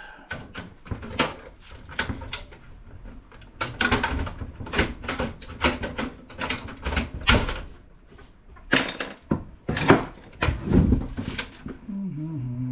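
Irregular clicks and knocks of metal and plastic computer parts being handled while a card reader is worked loose inside a PC case. A man starts humming near the end.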